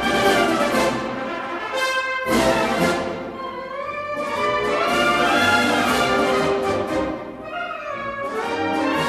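Orchestral music led by brass, playing sustained chords in phrases with short breaks between them.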